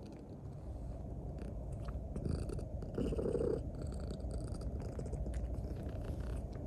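Domestic cat purring steadily and close, as it does while kneading; the purr grows louder over the first two seconds and swells briefly about three seconds in.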